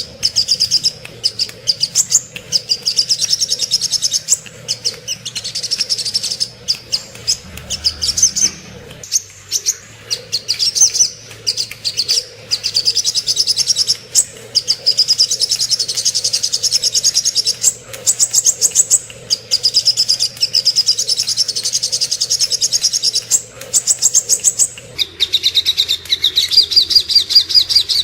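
Sogok ontong (spiderhunter) song: rapid, high-pitched chattering trills, one quick note after another with short breaks. About 25 seconds in the track cuts to a slightly lower-pitched trill.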